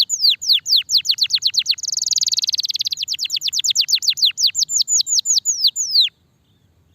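Domestic canary singing in full voice: a quick run of high downward-sweeping whistles, about five a second, broken by a dry buzzing trill for about a second near the two-second mark. The song then resumes and stops suddenly about six seconds in.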